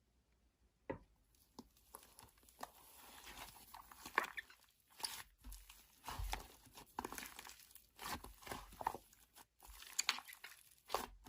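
Slime being squished and pressed by hand: quiet, irregular crackles, pops and crunches.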